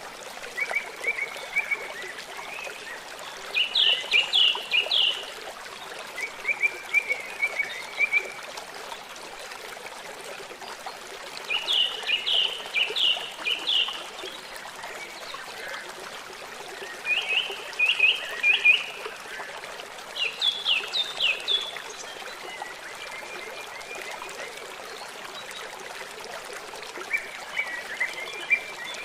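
Birdsong: a bird sings short phrases of quick, sharp chirps, one every few seconds, over a steady trickle of running water.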